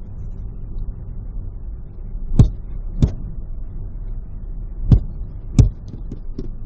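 Aerial fireworks bursting overhead, heard from inside a moving car: four loud bangs, the first two about two and three seconds in and the next two near five and five and a half seconds, then a few fainter pops. The steady rumble of the car on the freeway runs underneath.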